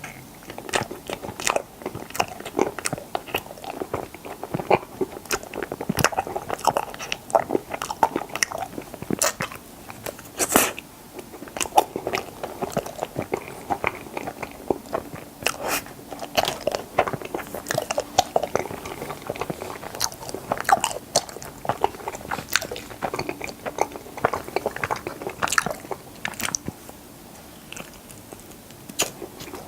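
Close-miked chewing and biting of strawberry mochi ice cream, with many irregular wet mouth clicks and smacks throughout.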